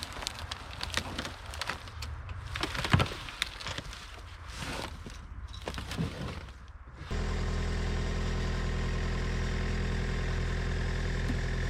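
Scattered clicks and knocks, then about seven seconds in an engine starts running steadily and keeps going.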